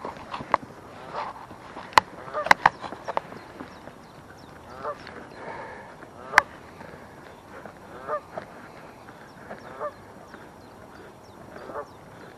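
Waterfowl honking, several short calls repeated throughout. Sharp clicks about two seconds in, a quick cluster just after, and another around the middle are the loudest sounds.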